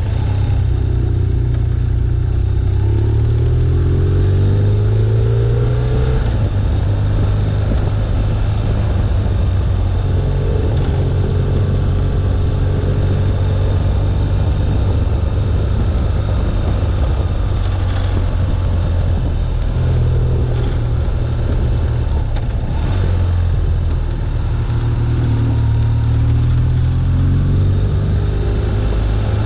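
A BMW R1200GS's air/oil-cooled boxer twin engine runs under way over steady wind and road noise. Its pitch climbs as the bike speeds up a few seconds in and again near the end.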